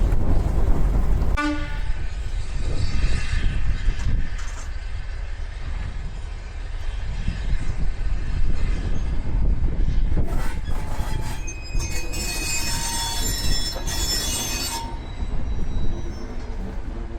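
Train running past with a steady low rumble. It sounds its whistle or horn once, a bit over a second in, fading over a few seconds. A long high squeal with hiss comes from about twelve to fifteen seconds in.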